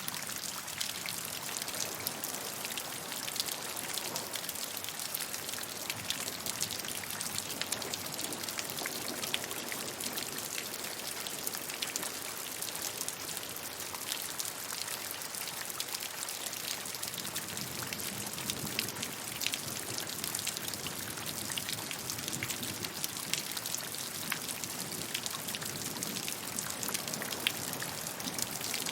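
Steady rainfall, an even hiss thick with the tapping of individual raindrops on a surface.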